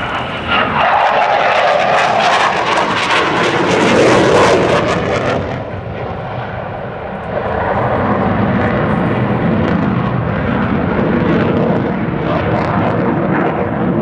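Airplane engine during a display pass, loudest about four seconds in with its pitch falling as it goes by, then running on steadily at a lower level.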